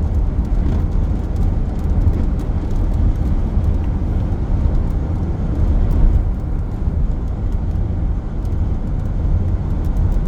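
Steady road and engine noise heard inside a moving car's cabin, a low even rumble.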